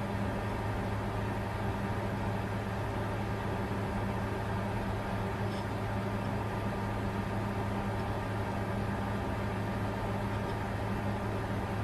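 Bitcoin mining computer running: a steady whir of cooling fans over a constant low electrical hum, unchanging throughout.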